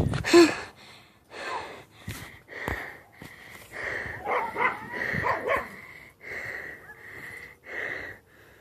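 A dog giving short barks and yips amid a run of heavy, rhythmic breaths, with a cluster of higher calls in the middle.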